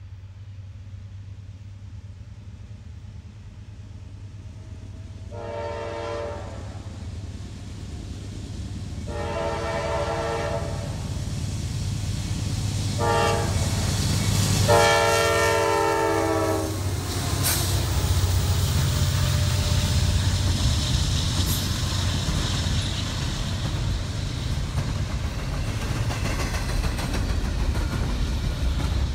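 Norfolk Southern diesel freight locomotives approaching, sounding the multi-note air horn in the grade-crossing pattern long, long, short, long, the signal for a road crossing ahead. The engine rumble grows louder as the locomotives pass close by, followed by double-stack intermodal container cars rolling past with steady wheel and rail clatter.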